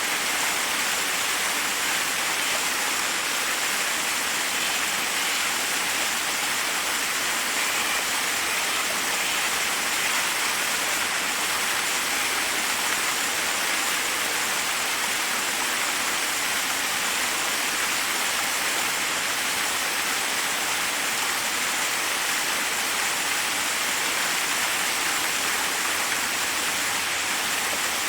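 Forest waterfall: water pouring and splashing over rocks in a steady, unbroken rush.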